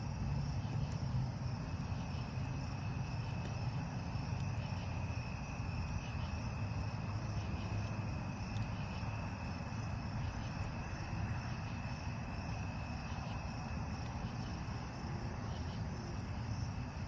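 Crickets chirping steadily in a continuous high trill, over a low steady rumble.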